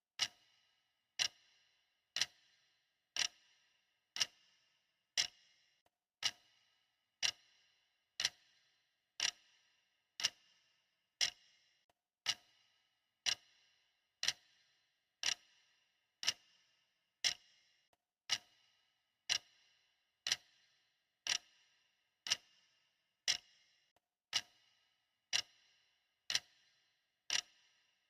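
Clock ticking steadily at one tick per second. Each tick is a sharp click with a short ringing tail.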